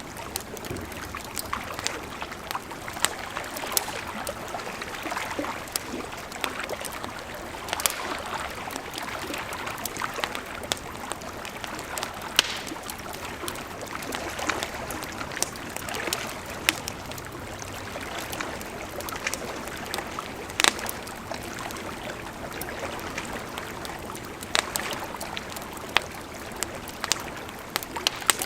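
A wood campfire crackling, with sharp irregular pops and snaps, over the steady rush of a flowing river.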